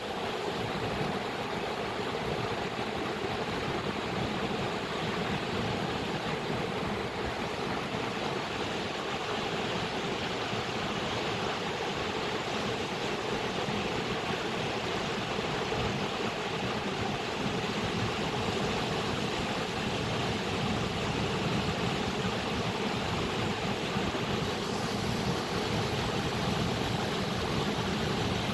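Flowing water running steadily: an even, unbroken rushing noise that holds the same level throughout.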